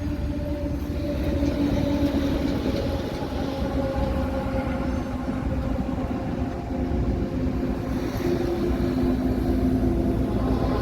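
Heavy truck's diesel engine running with a steady low drone, several held tones in it drifting slowly in pitch.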